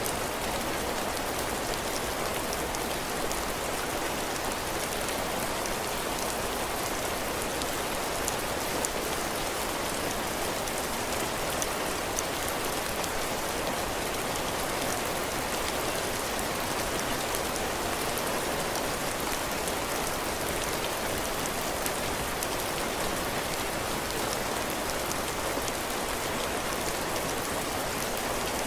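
Heavy rain falling steadily on a cabin porch, drops pattering on the roof and ground.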